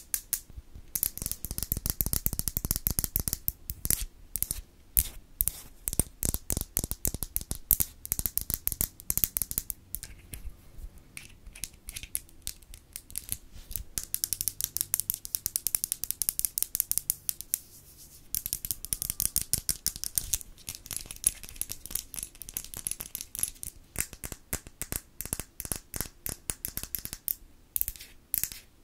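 ASMR mouth sounds close to the microphone: rapid, irregular wet clicks and smacks in dense runs, with a couple of short lulls.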